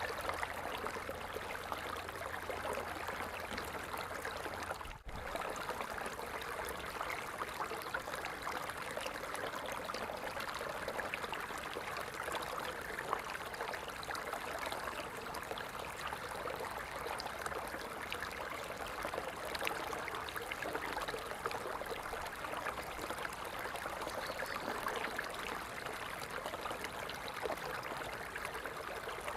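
Water falling and splashing steadily in a continuous rushing stream. There is a brief dropout about five seconds in.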